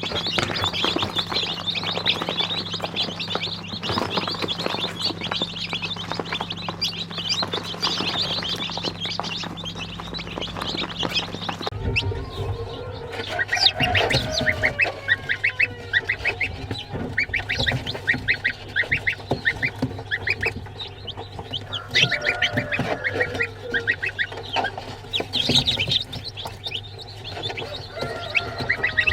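A flock of chickens chirping, clucking and calling. For the first twelve seconds a dense high chirping sits over a steady low hum. The hum stops abruptly, and rapid runs of clucks and gliding calls follow.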